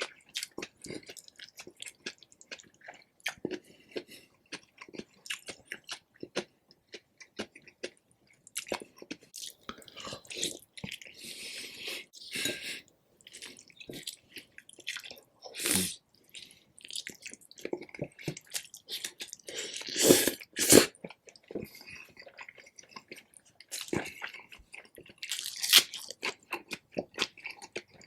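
Close-miked chewing and biting of rotisserie chicken: a steady run of wet mouth clicks and smacks, with a few louder bites or crunches now and then.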